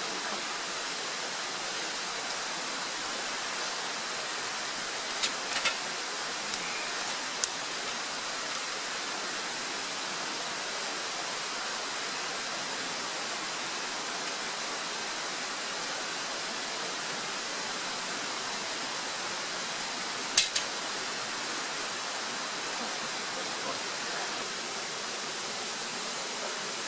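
Steady, even hiss with a few brief clicks, the loudest about two-thirds of the way through.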